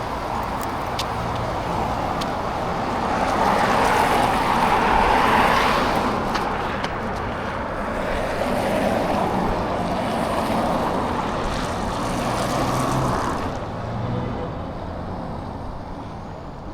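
Road traffic: motor vehicles passing on a road, the noise swelling as one goes by about five seconds in and again as another passes a few seconds later, then fading.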